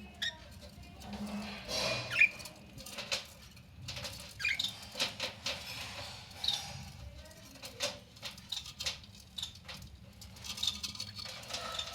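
Budgies chirping in short, quick calls, over scattered small clicks and scratching sounds.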